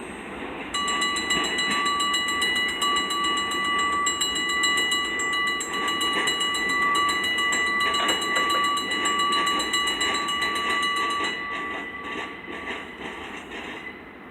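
Freight train cars rolling past, with a sustained high-pitched wheel squeal that starts about a second in and fades out near the end, leaving the rolling rumble.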